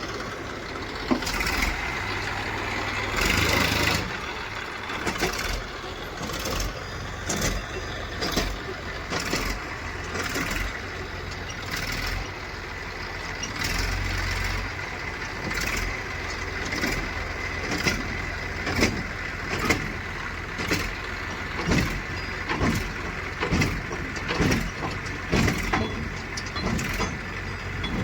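Diesel engine of heavy farm or construction machinery running, with a string of short sharp clanks about once a second.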